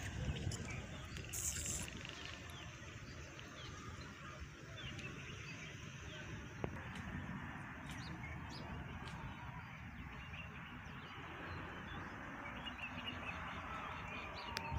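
Birds chirping here and there, short scattered calls over steady outdoor background noise.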